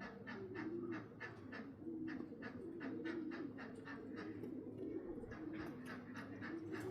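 Homing pigeons cooing at the loft, with a quick, even clicking of about five a second running alongside.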